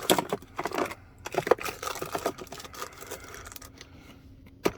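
Irregular clicks and plastic rattling as a Milwaukee Fuel wet/dry vacuum's case and fittings are handled, with a sharper click near the end; the motor is not running.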